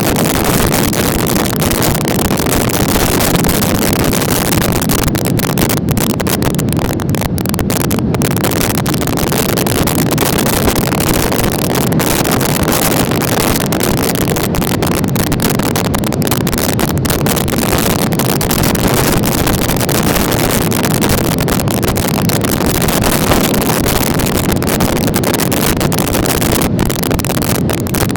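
Loud, steady wind and road noise on a microphone carried on a moving motorcycle, with no distinct engine note.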